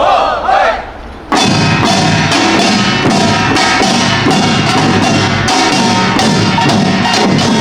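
Pungmul percussion ensemble of kkwaenggwari small gongs and drums playing a fast, dense rhythm, coming in loudly about a second in after a brief break that holds a short gliding sound.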